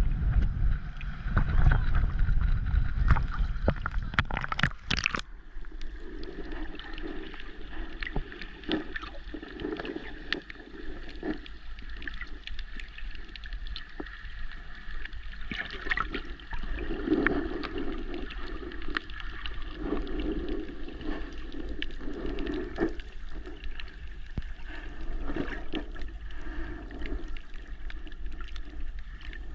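Sea water gurgling and sloshing, heard muffled with the camera underwater, with many scattered clicks. The first five seconds hold a heavier low rumble that cuts off suddenly.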